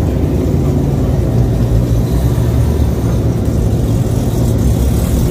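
Car engine running with a steady, low rumble.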